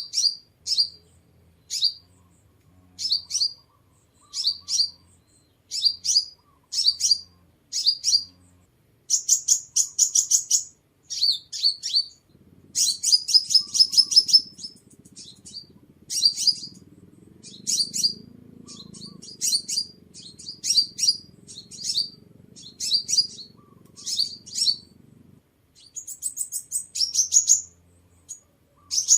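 Sunbird song: short, high chirping phrases repeated about once a second, broken by longer runs of rapid notes about a third of the way in and again near the end.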